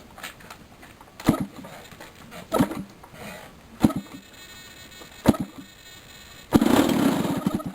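DLE 30 single-cylinder two-stroke gasoline model-airplane engine being turned over to start. It gives a single sharp pop four times, about every second and a half, then fires and runs roughly for about a second near the end before stopping, as a not-yet-started engine does.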